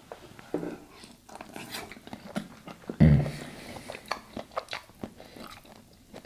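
Close-miked chewing of butter-sauced lobster meat, with many small wet mouth clicks and one louder low sound about halfway through.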